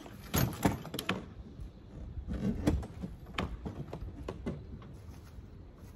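Knocks and clatter from demolition work on a pop-up camper's frame and panels. A cluster of impacts comes in the first second, another around two and a half seconds in, then scattered single knocks.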